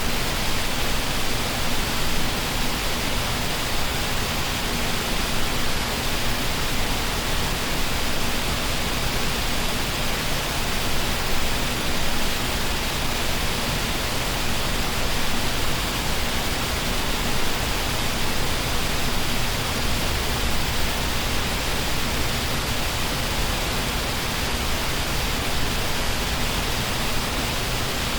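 Waterfall: a steady, even rush of falling water, with a faint steady low hum underneath.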